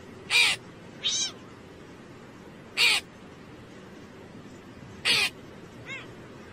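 Crow cawing: four short, harsh caws spaced a second or two apart and a fainter fifth near the end, over a steady background hiss.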